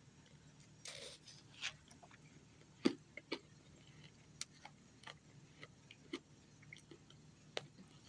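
A person crunching ice in their mouth: irregular crunches and clicks, the loudest just before three seconds in.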